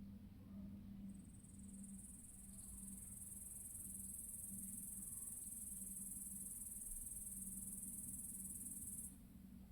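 An insect's steady, very high-pitched trill, starting about a second in and stopping abruptly near the end.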